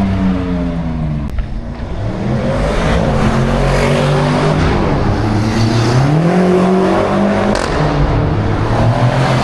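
Car engine revving hard: the revs drop in the first second or so, climb again about two seconds in, and rise once more about six seconds in, where they are held high.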